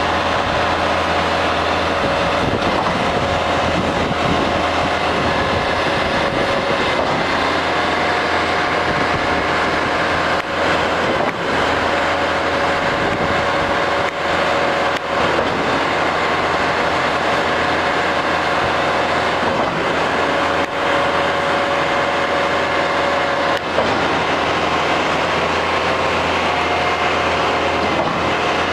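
Truck-mounted concrete pump working: a steady machine drone with a high whine, and a knock every few seconds.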